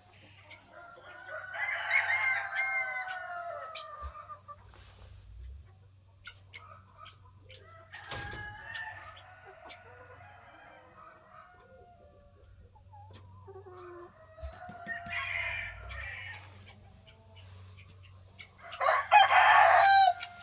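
Several roosters crowing one after another, each crow a drawn-out call of about a second and a half, the loudest near the end, with hens clucking and a few faint clicks and knocks in between.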